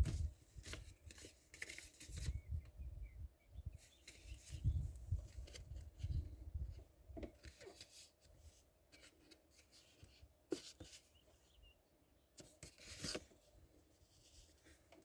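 Irregular handling noises: scattered sharp clicks and rubs with low thumps, busiest in the first half and sparser after.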